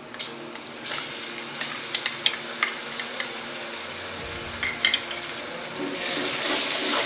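Onions frying in oil in a metal pot, sizzling as ginger-garlic paste is spooned in, with sharp clicks of a metal spoon against the bowl and pot. About six seconds in the paste is stirred in with a ladle and the sizzle grows louder.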